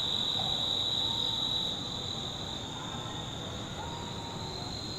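Insects trilling in a steady, unbroken high-pitched drone, an outdoor chorus of the kind crickets make.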